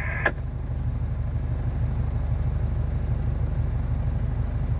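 Truck's diesel engine running steadily, a low, evenly pulsing hum heard from inside the cab. A short click just after the start, as a CB radio transmission cuts off.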